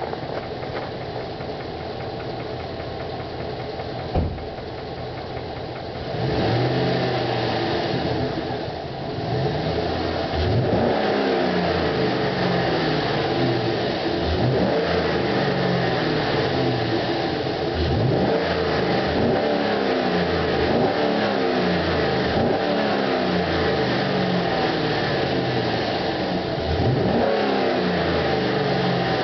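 Chevrolet Silverado pickup's engine, cold, idling and then revved hard over and over, the pitch climbing on each rev and falling back. There is a single sharp knock about four seconds in, before the revving begins.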